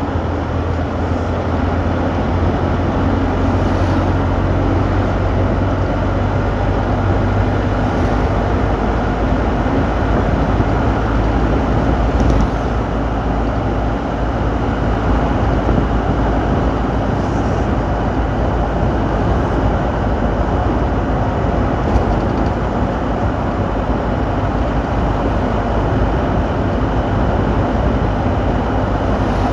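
Steady rumble of a moving car, engine and road noise, holding at an even level throughout.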